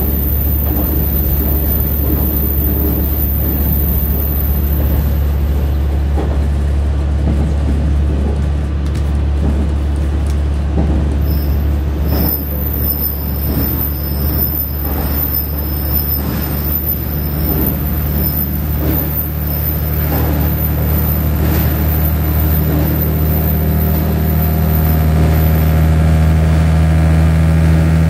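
Diesel railcar running, heard from inside the cab: a steady low engine drone with the rumble of wheels on the track. A run of clicks and knocks from the wheels comes through the middle, and the engine note steadies and grows a little louder near the end.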